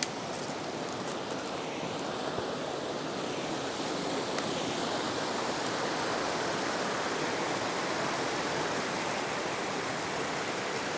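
Small mountain stream rushing over a little waterfall, a steady, even splashing rush of water.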